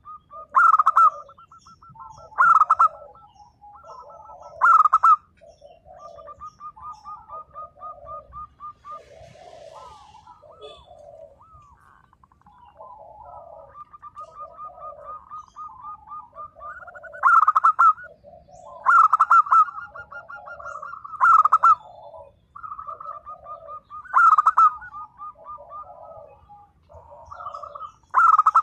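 Zebra doves (perkutut) cooing: quick rattling trills of notes with softer low coos between them, broken by loud emphatic coos every couple of seconds. The loud coos pause in the middle of the stretch, where only the softer trilling goes on.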